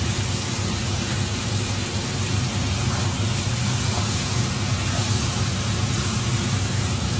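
Kitchen range hood fan running with a loud, steady hum and rush of air, over stir-fried pork and vegetables sizzling in a wok.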